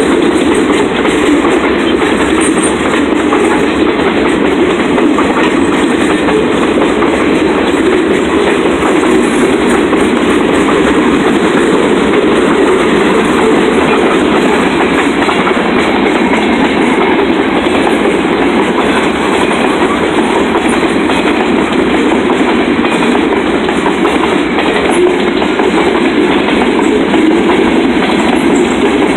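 Freight train cars rolling past close by: a loud, steady rumble of steel wheels on the rails that does not let up.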